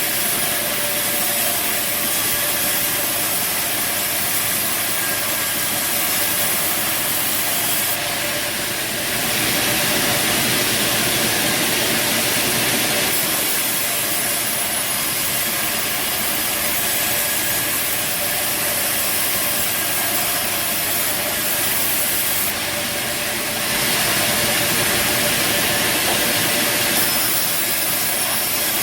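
Bandsaw sawmill running and cutting timber: a steady loud machine noise with saw-on-wood sound, changing in character abruptly several times.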